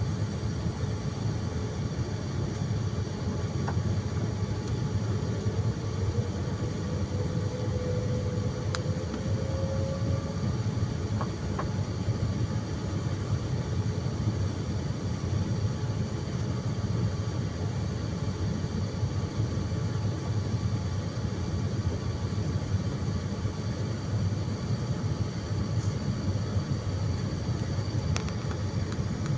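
Steady low rumble of an airliner cabin: engine and airflow noise heard from inside the plane, with a faint tone gliding slightly upward partway through and a few light clicks.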